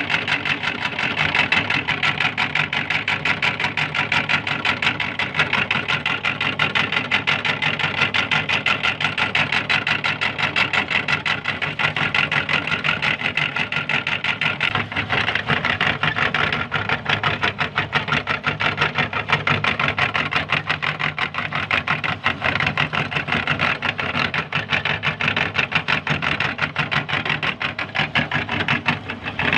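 Electric meat grinder running steadily while grinding green chillies, an even motor hum with a fast rattling pulse.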